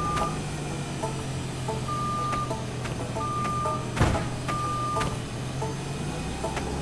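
Truck engine running steadily while an electronic warning beep sounds repeatedly, each beep about half a second long and coming roughly every second and a half. A single sharp knock falls about four seconds in.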